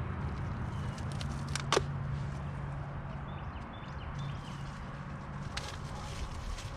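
Light handling sounds and a few small clicks as a rubber fuel line is routed and fitted on a diesel garden tractor, with one sharp click a little under two seconds in, over a steady low hum.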